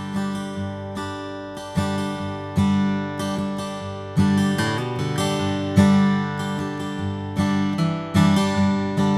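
Blueridge BR-140AS steel-string acoustic guitar, Adirondack spruce top with mahogany body, strummed in full chords. A new strum comes every second or so, and each chord is left to ring.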